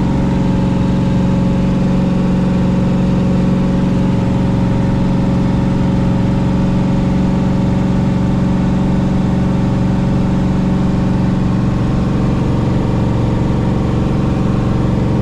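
Car engine running steadily at a constant speed, its drone holding one pitch without revving.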